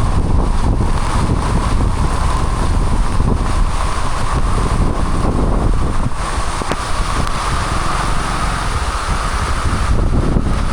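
Heavy rainstorm with strong wind: a loud, steady roar, with gusts buffeting the microphone.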